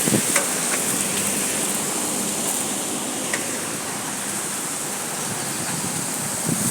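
Steady rain on a wet street: an even hiss of falling and running water.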